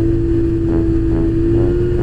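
Motorcycle engine running at a steady cruising speed, its note holding at one pitch over a low rumble.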